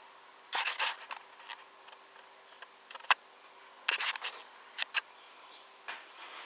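Handling noise as a 1:18 diecast model car is turned by hand: short rubbing scrapes and several sharp clicks, over a faint steady hum.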